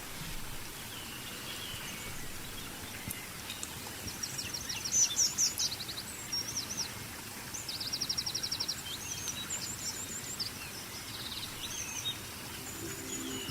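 Several small songbirds singing and chirping over a steady outdoor background hiss, with a few quick rapid trills. Music comes in near the end.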